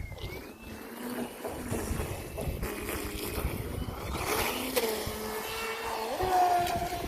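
Brushless motor of a Volantex Vector Pro Angry Shark RC speedboat running on a 4S battery, a pitched whine that shifts as the throttle changes and steps up in pitch about six seconds in as it speeds across the water.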